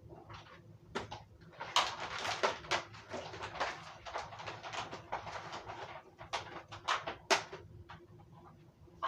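Irregular clicks, knocks and rustling of a vacuum cleaner's power cord being unwound and untangled, with a denser run of rustling through the middle.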